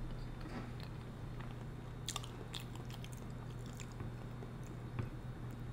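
Quiet close-miked chewing of seafood boil food with the mouth closed, with a few soft clicks scattered through, over a faint steady low hum.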